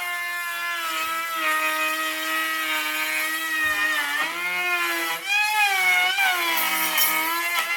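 Electric woodworking power tool motor running at a steady high whine, its pitch dipping and recovering several times about halfway through.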